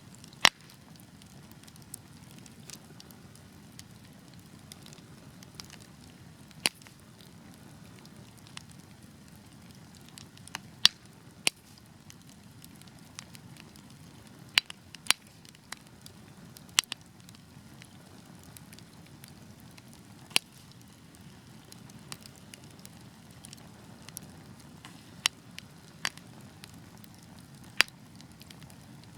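Wood fire crackling: a steady low rustling hiss of burning, broken by about a dozen sharp, irregularly spaced pops and snaps.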